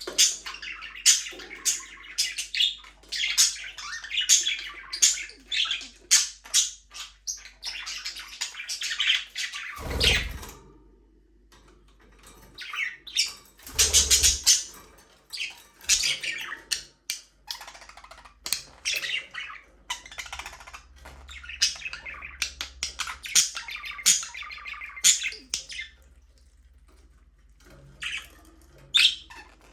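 A flock of budgerigars chirping and squawking in rapid runs of short, high calls, thinning out briefly twice. Two dull thumps come about ten and fourteen seconds in.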